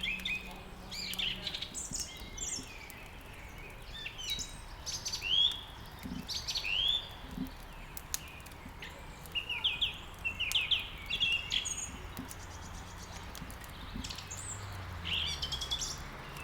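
Songbirds chirping and singing in short, quick phrases that come in clusters throughout, several calls overlapping, over a faint steady background hiss, with a few faint sharp crackles.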